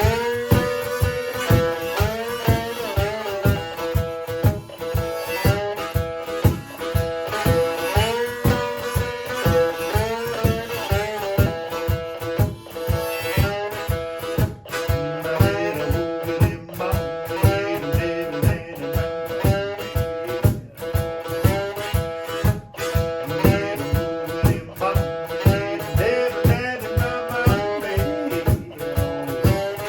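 Instrumental blues on a one-string guitar, with notes sliding up and down, over a steady cajon beat.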